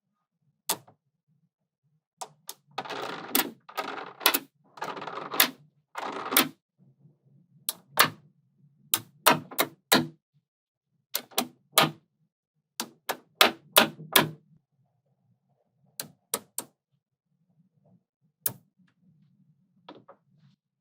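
Small magnetic balls clicking and snapping together as they are handled, with a run of rattling clatter a few seconds in, then sharp single clicks that thin out toward the end.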